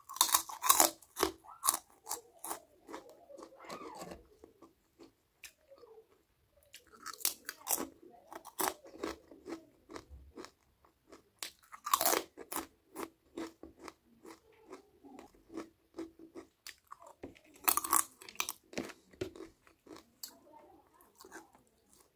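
A person biting and chewing crunchy food, with loud crunching in four bouts: right at the start, around a third of the way in, about the middle and near the end, and quieter chewing between them.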